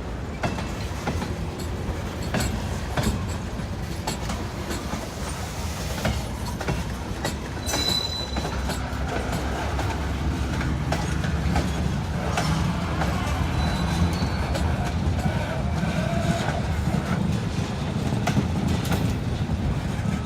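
Freight train cars rolling past, with steady rumble and repeated clickety-clack of wheels over rail joints. A brief high wheel squeal comes about eight seconds in, and a fainter one a little later.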